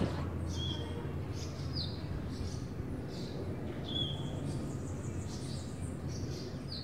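Small birds chirping, several short high calls a second or so apart, some gliding downward, over a steady low hum of outdoor background noise.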